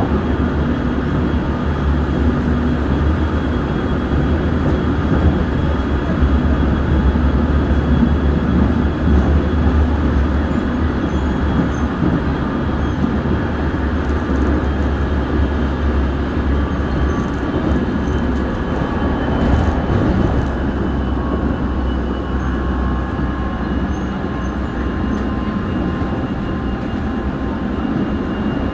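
Seoul Subway Line 1 electric train running steadily between stations, heard from inside the car: a continuous rumble of wheels on rails with faint thin whining tones over it.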